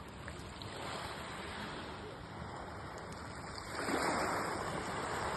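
Small sea waves washing onto the beach, a steady rush that swells louder near the end as a wave comes in.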